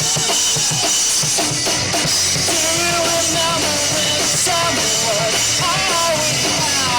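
A live punk rock band playing a song loudly: a full drum kit with guitars, and a melody line that comes in about two seconds in.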